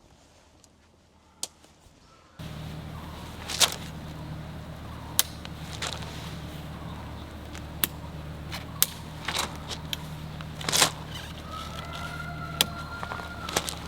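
Excavator's diesel engine running steadily with a low hum, starting suddenly a couple of seconds in, with sharp clicks and knocks over it.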